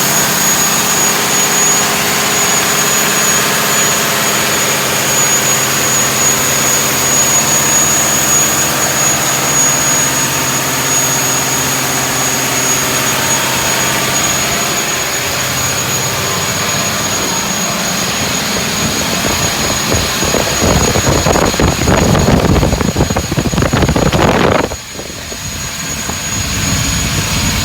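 Scania diesel engine running under test, with a steady high whistle over it. It revs up and grows louder and heavier about two-thirds of the way in, drops off suddenly near the end, then picks up again.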